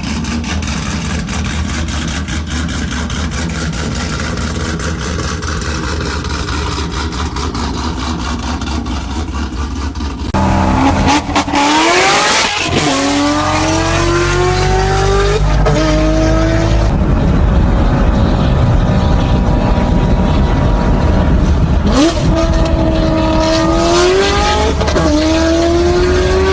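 Car engine exhaust, running with a steady rumble for about ten seconds. Then, louder, a car accelerates hard through the gears, its pitch climbing and dropping back at each of about four shifts.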